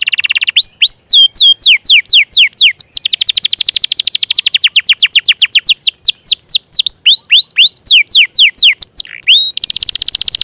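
Domestic canary singing: a long, loud song of fast repeated notes that sweep down in pitch, alternating with very rapid rattling trills.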